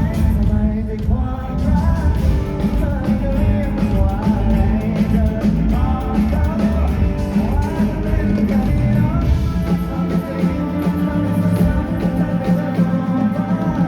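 Live pop-rock band performance: a lead vocal sung over electric guitars, bass and drums, heard loud through a concert PA. About ten seconds in the low end thins out for a few seconds before the full band returns.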